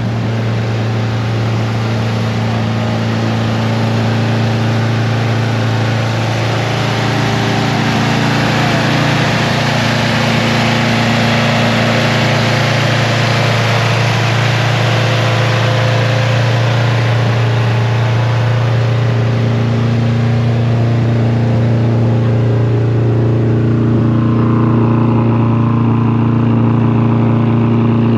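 A car engine running steadily at a near-constant speed, with an even hiss of road and wind noise over it. The level rises slightly partway through.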